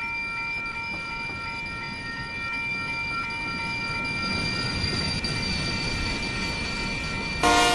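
Freight train approaching, with a steady high ringing over a low rumble that grows louder from about halfway through. A locomotive horn starts blowing just before the end.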